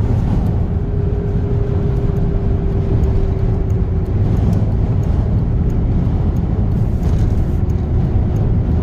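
Steady road and engine rumble of a moving car heard from inside the cabin, with a faint steady hum in the first few seconds.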